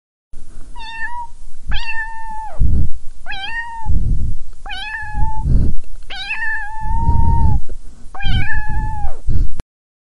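A cat meowing six times in a row, each meow a clear, high call that rises, holds and drops away at the end. Low rumbles fill the gaps between the meows, and the sound cuts off suddenly near the end.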